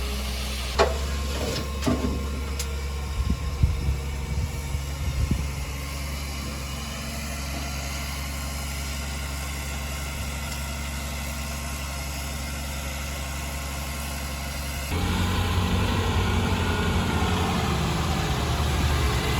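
Diesel engine of heavy earthmoving machinery running steadily, with several sharp knocks and clanks in the first few seconds. About fifteen seconds in the sound turns louder and rougher.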